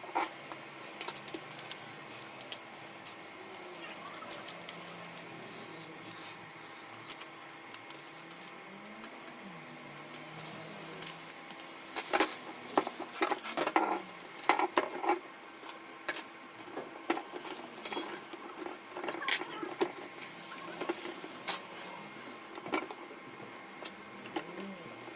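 Irregular clicks and knocks of plastic and metal printer parts being handled during work on a Canon MF4018's fuser, over a faint steady hum. The clicks come in flurries, busiest about halfway through and again in the later part.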